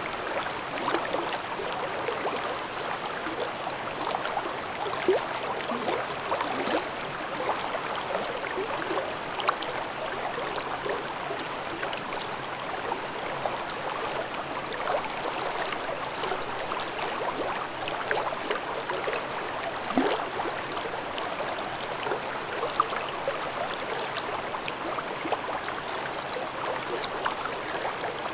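Babbling brook in a forest valley: water burbling over stones in a steady, even rush, dotted with small splashes and gurgles.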